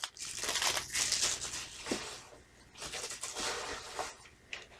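Plastic shrink wrap crinkling and rustling in short bursts as it is pulled off a VHS tape, with a brief lull about halfway through.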